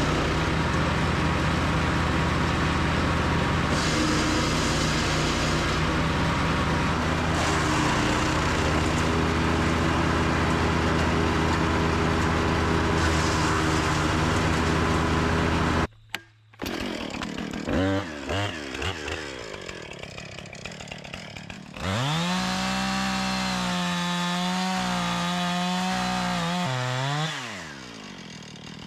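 A small gas engine runs steadily for about sixteen seconds and cuts off abruptly. Then a gas chainsaw revs up and down several times, is held at full throttle for about five seconds, and drops back to idle near the end.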